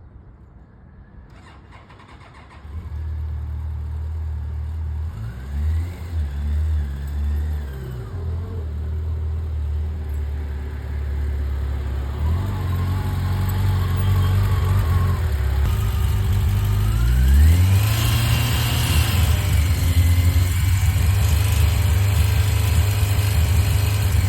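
Yamaha FJR1300's inline-four engine running at low speed, coming in about three seconds in, its revs rising and falling, with a sharper rise in revs past the middle.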